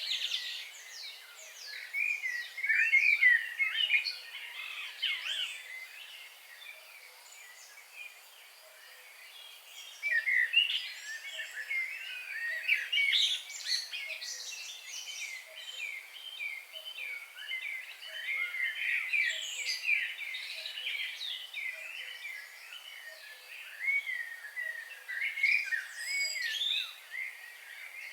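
Several songbirds singing and chirping together in quick, overlapping phrases, with a short lull a few seconds in before the chorus picks up again.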